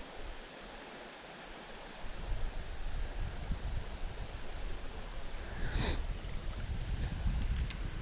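Steady high-pitched insect chorus of late-season crickets or katydids droning on one pitch. About two seconds in, a low uneven rumble comes up beneath it, with a short rushing noise near six seconds.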